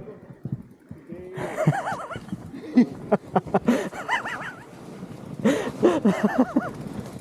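People laughing and hooting, the voices rising and falling in pitch in two spells, starting about a second in.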